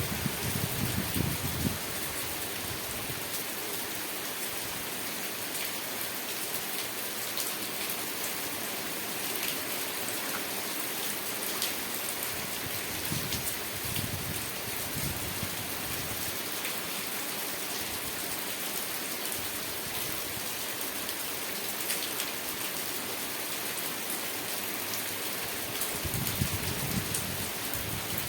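Steady rain falling, a dense even hiss with faint scattered drop ticks. Low rumbles swell under it near the start, once in the middle and again near the end.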